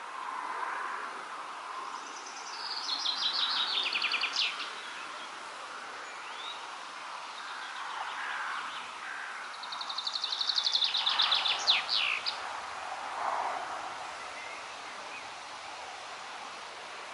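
A songbird sings two short phrases about eight seconds apart, each a quick run of repeated notes that steps down in pitch and ends in a brief flourish. Behind it is a steady hiss of wind in the leaves.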